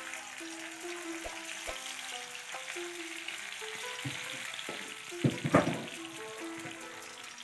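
Red chilies, shallots and garlic frying in hot oil in a wok, a steady sizzle. A louder burst of sizzle and clatter comes about five and a half seconds in as more goes into the pan.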